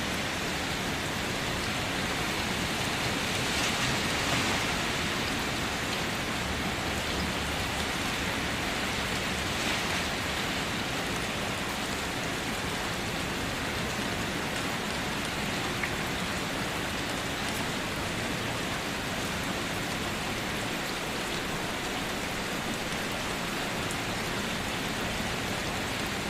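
Steady rain drumming on a car, a dense even patter of drops with a slightly heavier spell about four seconds in.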